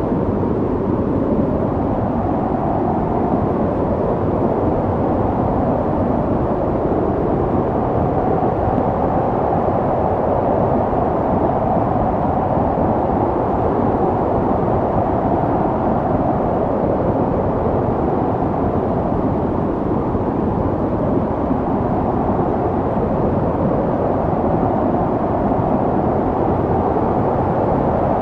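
Snowstorm wind blowing steadily, a low, even rushing noise with no breaks.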